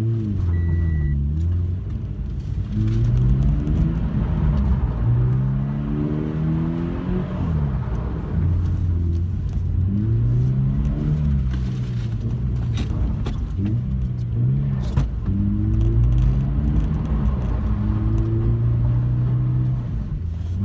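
Scion FR-S's flat-four engine heard from inside the cabin, revving up and falling back again and again as the car is slid through figure-eights on a wet surface, over a steady hiss.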